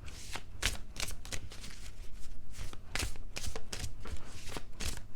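Oracle cards being shuffled by hand: a run of quick, irregular card clicks and flicks, a few each second.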